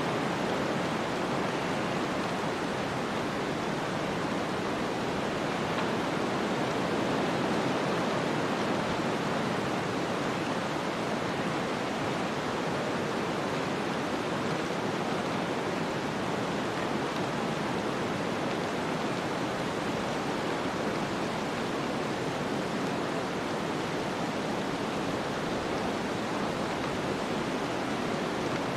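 Snowstorm ambience: a steady, even rushing of wind-driven noise with no distinct gusts, clicks or other events.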